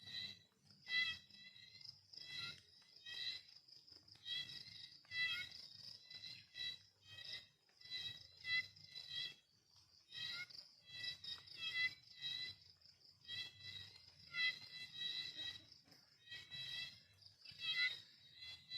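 Crickets chirping: short high chirps in quick groups, repeating every second or two.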